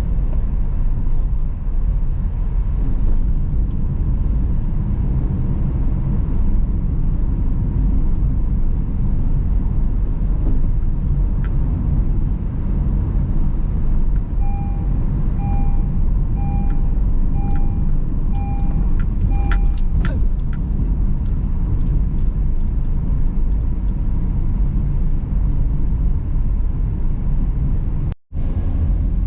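Car driving, with a steady low rumble of engine and tyres. About halfway through, a run of evenly spaced electronic beeps, about one and a half a second, sounds for some five seconds, followed by a few scattered clicks and rattles. The sound cuts out briefly near the end.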